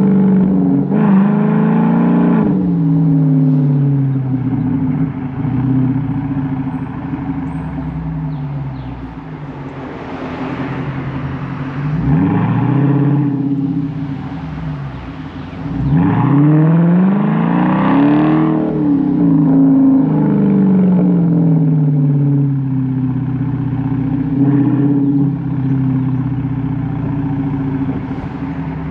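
Chrysler 300's Hemi V8 through Carven R mufflers with the resonator deleted, revved several times. The exhaust note rises and falls with each rev and settles back to a steady burble between them.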